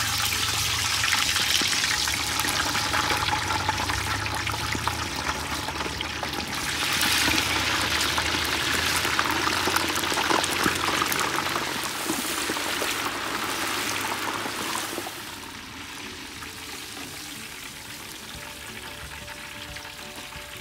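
Cornstarch-coated lobster pieces deep-frying in a pot of hot oil: a loud, dense crackling sizzle, which the cook calls very violent as the pieces go in. It swells again about seven seconds in, then dies down to a quieter sizzle about fifteen seconds in.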